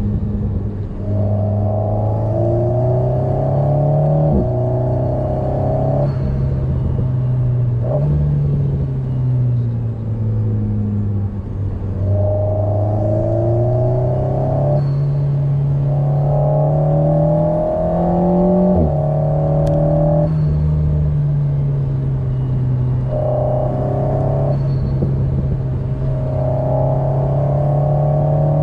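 Alpine A110's turbocharged four-cylinder engine heard from inside the cabin, pulling hard through the gears. The engine note climbs under acceleration and drops back at each gear change, several times over.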